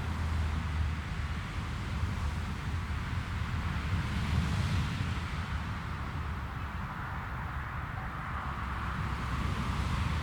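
Jet airliner engines rumbling at a distance, mixed with wind on the microphone; the sound swells about four seconds in and again near the end.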